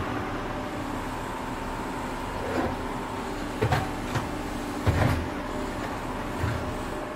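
A tractor running steadily while digging, its engine a constant hum broken by about half a dozen short clunks and thuds in the middle of the stretch.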